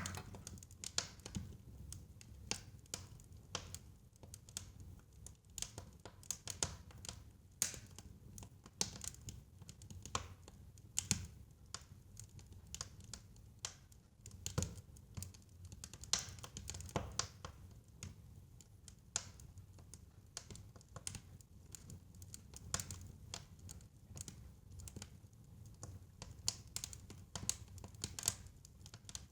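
Fire crackling in a fireplace: irregular sharp pops and snaps, a few a second, over a low steady rumble of the flames.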